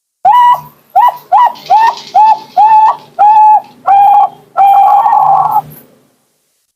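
Zebra dove (perkutut) singing loudly: a run of about eight short coos in quick succession, ending in one longer drawn-out note.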